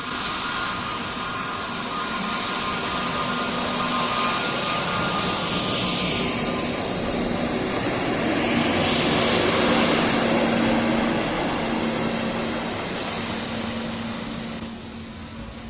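Jet airliner's engines passing close by, the noise swelling to a peak about nine to ten seconds in, with a sweeping change in pitch as it passes, then fading away.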